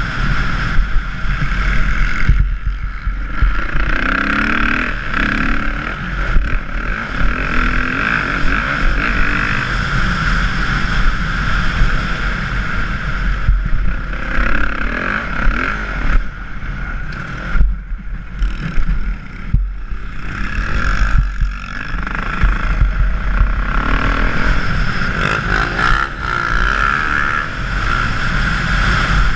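Dirt bike engine revving up and down as it is ridden around a motocross track, dropping off briefly several times between pulls, with heavy wind rumble on the microphone.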